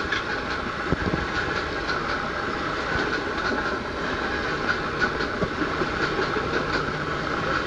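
Blue Indian Railways passenger coaches rushing past at close range, a steady loud rush of noise with the wheels clattering over the rail joints in quick, irregular clicks.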